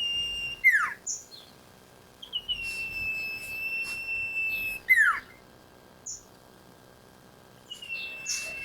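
Iora song: long, drawn-out, even whistles, each a couple of seconds long and ending in a quick downward-slurred note, repeated, with short high chips in between.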